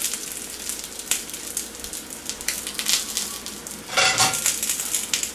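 Eggplant slices pan-frying in oil, with a steady sizzle and frequent small crackles as chopsticks move the slices, which are nearly done. A short, louder noise comes about four seconds in.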